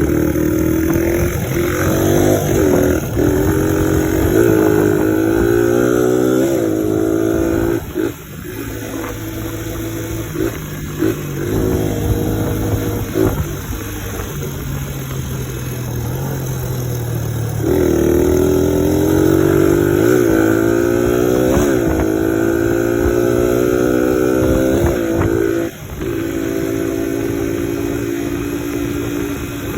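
1986 Suzuki DR100's single-cylinder four-stroke engine being ridden hard, its pitch climbing in steps as it accelerates through the gears. It eases off to a lower, steadier note about eight seconds in, then pulls up through the gears again before backing off sharply near the end.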